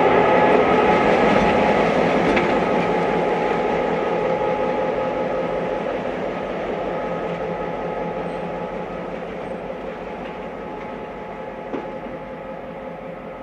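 Passenger train running on the rails, growing steadily fainter as it moves away, with a few steady ringing tones over the rolling noise.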